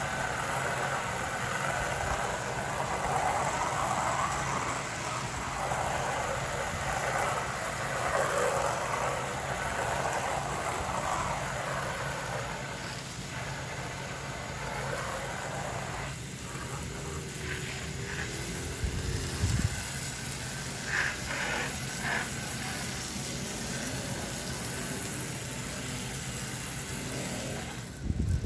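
Hiss of a hose-end sprayer putting siding cleaner onto the house wall, which stops about halfway through. A steady low hum runs under it the whole time.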